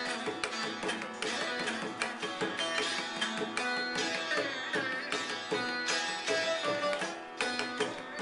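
Indian music: a plucked string instrument playing a quick melody over rapid hand-drum strokes.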